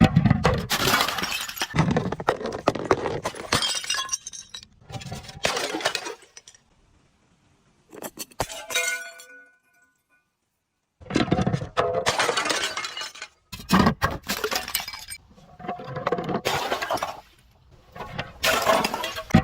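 Glass bottles being smashed and crushed in repeated crunching bursts of breaking glass. Near the middle there is a pause, broken by a brief ringing clink of glass.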